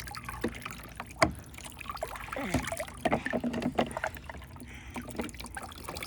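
Water splashing and sloshing in a children's water table as it is scooped and poured over toy cars, with scattered sharp knocks, the loudest about a second in.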